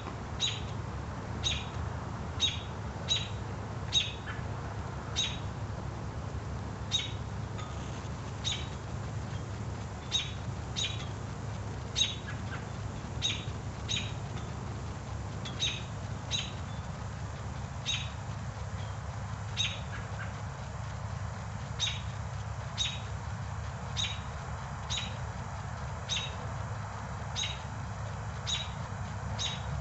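Birds chirping: short, sharp calls repeated roughly once or twice a second, over a low steady background hum.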